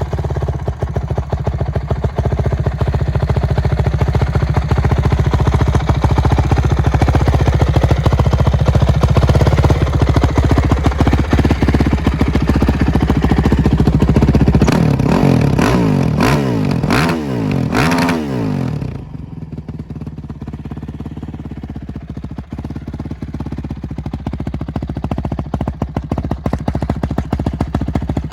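2006 Honda CRF450X single-cylinder four-stroke engine with an Akrapovic exhaust idling steadily, then revved several times in quick blips, after which it drops back to a quieter idle.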